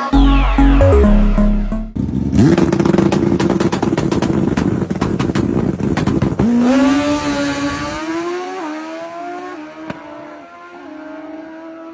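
High-performance sport motorcycle engine, first running hard at steady high revs, then accelerating with its pitch climbing and dropping back in small steps as it shifts up through the gears. Electronic music plays for the first two seconds.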